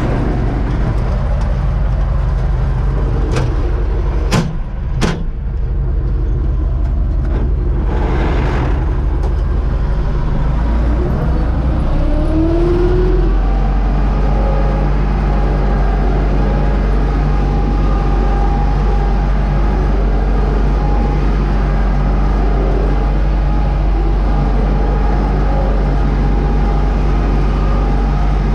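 Universal U650 tractor's diesel engine running steadily, with a few sharp knocks about three to five seconds in and the engine speeding up around twelve seconds in, then holding steady.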